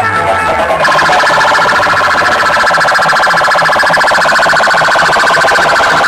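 Very loud, rapidly warbling alarm-like electronic tone blasted through a DJ sound system, with a low pulse repeating beneath it. It cuts out briefly at the start and resumes about a second in.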